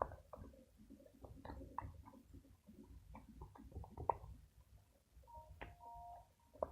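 Sticky glue-and-laundry-detergent slime being stirred and worked by hand in a bowl, giving irregular wet squelches and small clicks. Near the end a short steady two-pitched tone sounds for about a second.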